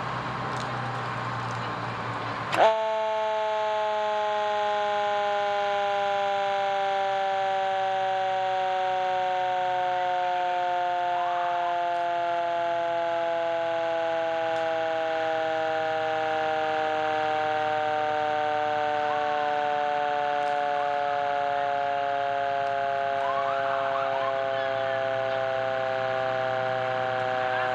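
Fire truck siren that starts suddenly about two and a half seconds in and then sounds one long, steady, multi-tone wail that slowly falls in pitch. Before it starts, the truck's engine is heard running.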